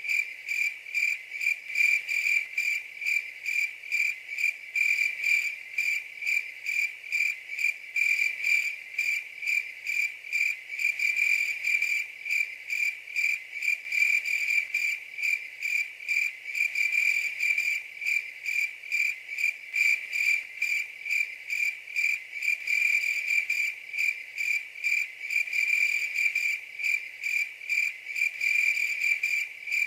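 Cricket chirping steadily: a single high, pure-sounding trill pulsing evenly about three times a second without pause.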